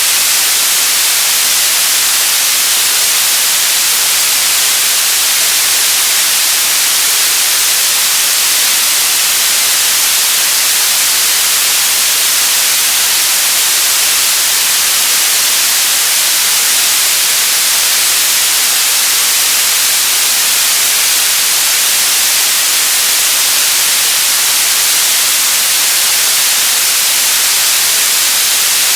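Loud, steady white noise: an even hiss, bright and weighted toward the treble, with no change or break.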